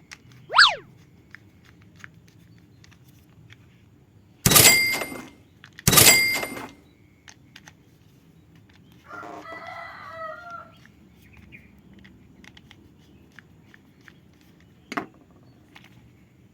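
A string of added sound effects: a quick whistle-like glide just after the start, two loud ringing hits about four and a half and six seconds in, then a rooster-like crowing call lasting about a second and a half around nine seconds, and a short click near the end.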